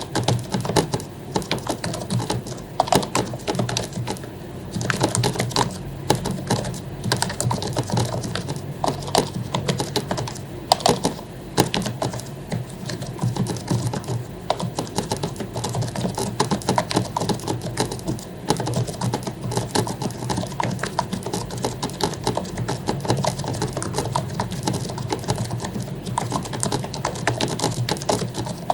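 Continuous fast typing on a membrane keyboard with lubed keycaps: a dense, irregular run of soft key clicks and thuds.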